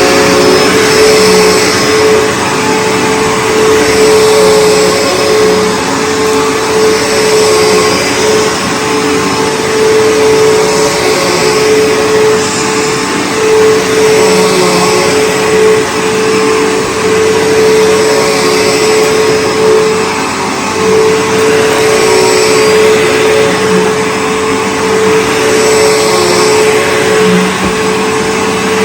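A Bissell PowerForce Bagged 3522 upright vacuum cleaner running steadily, its motor just up to speed, with a constant whine over a loud rush of air.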